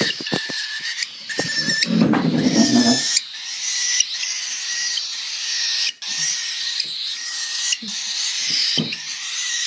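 Baby birds giving continuous high-pitched begging calls while being syringe-fed, with a steady thin tone running under the chatter. About two seconds in, a lower, rougher sound lasts for about a second.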